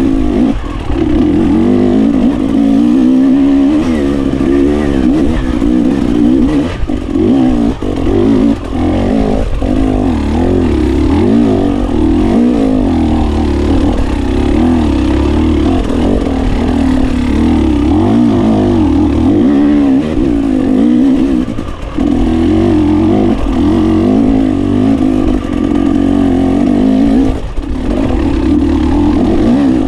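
GasGas 300 enduro motorcycle engine being ridden hard, its pitch rising and falling constantly as the throttle is opened and closed, with short dips as it is backed off.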